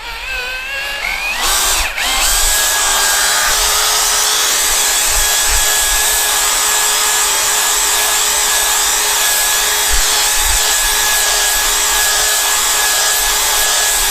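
Power drill spinning a polishing sponge pad, buffing a motorcycle windscreen with cerium oxide paste. It spins up with a short rising whine about two seconds in, then runs steadily under load.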